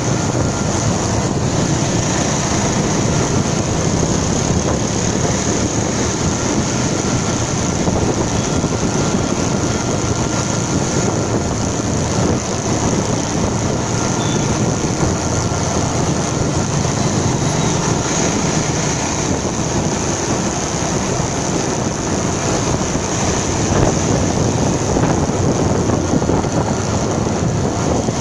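Motorcycle riding at a steady pace: the engine runs evenly under a constant rush of road and wind noise, with no gear changes or revs standing out.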